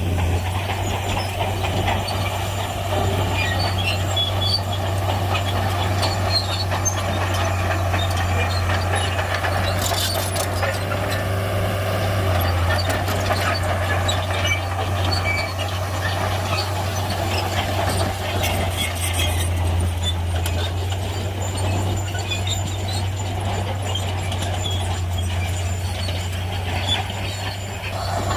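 Shantui crawler bulldozer working: a steady deep diesel drone with a higher squeal over it, likely from the steel tracks and running gear.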